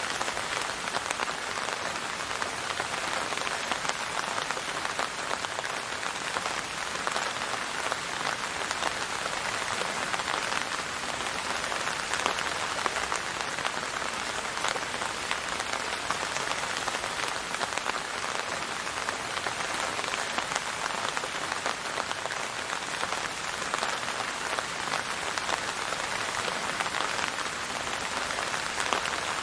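Steady rain falling: an even hiss of many fine drop patters, with no change in strength.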